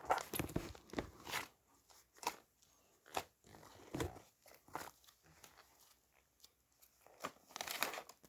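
Irregular crinkling and crunching noises: a scatter of short sharp clicks and rustles, with quieter gaps between them.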